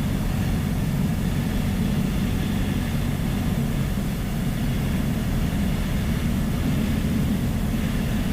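Single-engine Piper Dakota's piston engine and propeller droning steadily as heard inside the cabin, with a constant hiss of airflow, while the plane is on approach to land.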